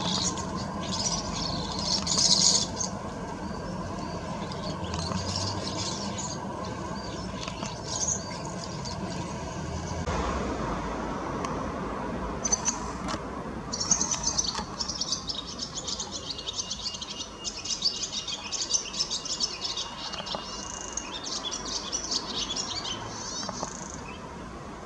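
Small garden birds chirping and twittering, with dense, rapid runs of chirps in the second half, over a steady low background hum.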